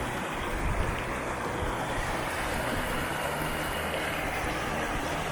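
Steady wind noise buffeting the microphone, with an uneven low rumble under an even hiss.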